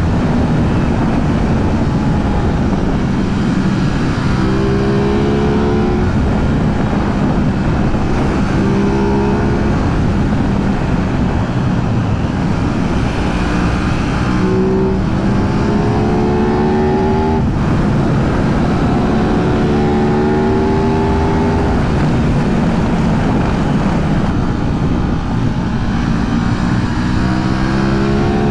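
Aprilia 660 parallel-twin motorcycle engine accelerating through the gears: its pitch climbs in repeated runs, each cut short by an upshift, over a steady rush of riding wind.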